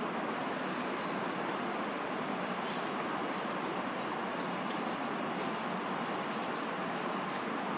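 Steady hum of city traffic, with two short runs of faint, high, falling bird chirps: one about half a second in, one about four seconds in.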